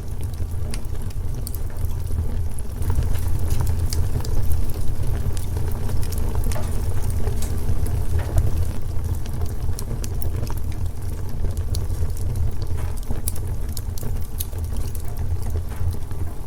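Wood fire in a fireplace crackling, with many sharp pops and snaps over a steady low rumble of the flames.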